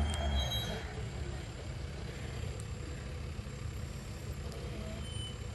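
Vehicle engine running at idle, a steady low rumble; a louder engine sound fades away during the first second.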